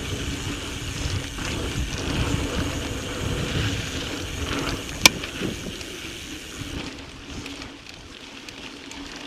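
Mountain bike rolling over a sandy, rocky dirt trail: tyre and frame rumble with wind on the microphone, and one sharp click about five seconds in. It gets quieter over the last couple of seconds.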